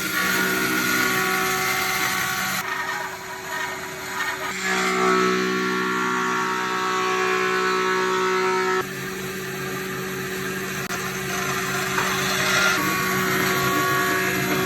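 Woodworking power tool motor running steadily with a high whine, in several segments that change suddenly as the tool or its load changes.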